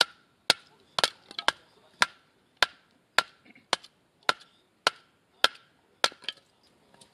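Splitting a log by batoning: a length of firewood hits the back of a hatchet set in the log's end and drives the blade down. Sharp wooden knocks about two a second, a couple of them quick double strikes, stopping shortly before the end.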